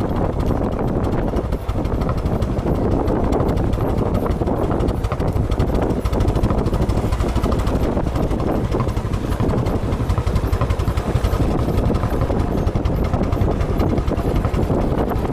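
Motorcycle engine running steadily, with a dense, constant noise that does not let up.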